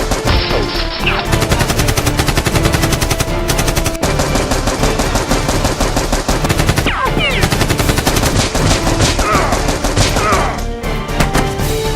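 Rapid, continuous automatic gunfire sound effects, shot after shot, laid over background music.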